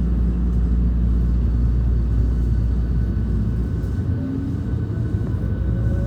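Hankyu 1300 series electric train heard from inside the car: a steady low rumble of running on the rails. Near the end the whine of its Toyo IGBT-VVVF traction drive starts rising in pitch as the train speeds up.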